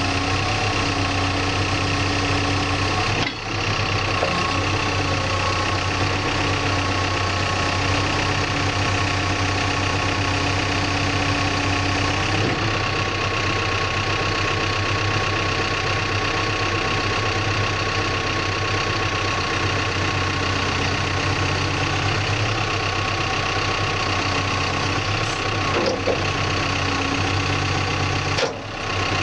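Backhoe's diesel engine running steadily. There is a brief dip about three seconds in, a change in tone about halfway, and a couple of short dips near the end.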